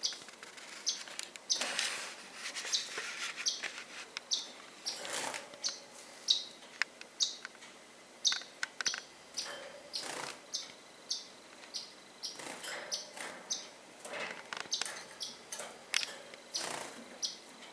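Pet birds chirping: many short, high chirps repeating irregularly, with a few brief rushing noises in between.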